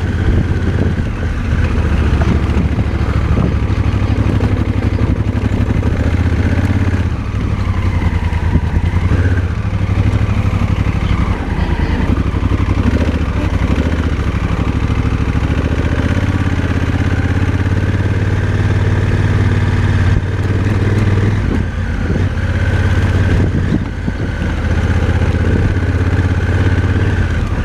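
Motorcycle engine running while riding on a dirt road, its note shifting several times as the throttle changes.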